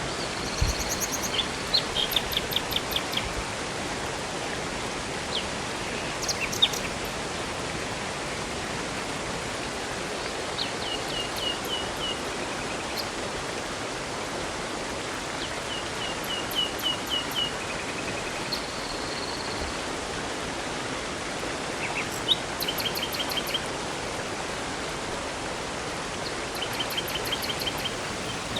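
Steady rush of flowing river and waterfall water, with small songbirds singing short phrases of quick repeated high notes every few seconds.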